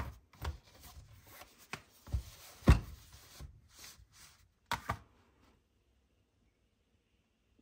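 Objects being handled on a desk during an unboxing: a run of light knocks and taps with rubbing between them, the loudest knock about halfway through the first three seconds, then dead silence for roughly the last two seconds.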